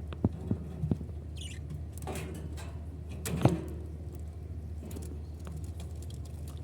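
Pet lovebirds moving about their cage: scattered knocks and scratching, with one short high chirp about a second and a half in and a louder knock about three and a half seconds in.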